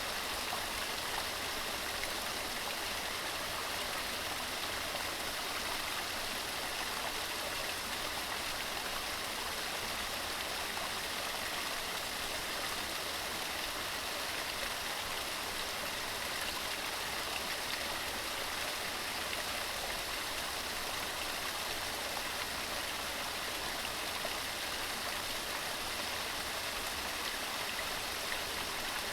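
Waterfall: water tumbling over rocks in a steady, unbroken rush, bright and hissy rather than deep.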